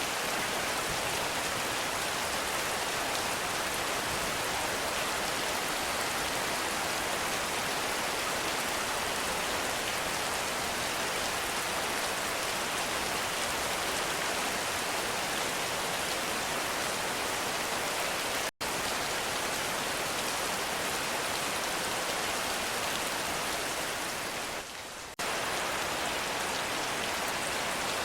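Heavy rain falling steadily, a dense even hiss of rain. It cuts out for a split second about two-thirds of the way through and drops briefly in level near the end.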